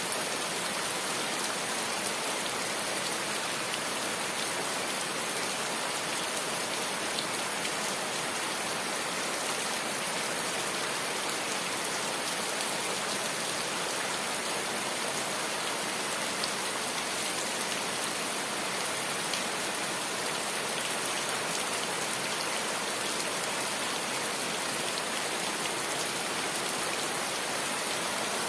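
Steady rain falling on a corrugated metal roof and the plants around it, dense and unbroken throughout.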